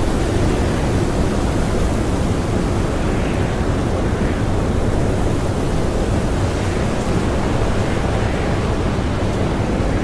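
Strong blizzard wind blowing steadily, a dense unbroken rush with its weight low and no gusts or breaks.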